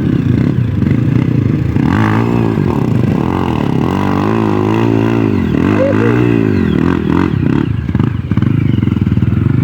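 Several motorcycle engines running loud, one revving up and down repeatedly, as if working the throttle in mud.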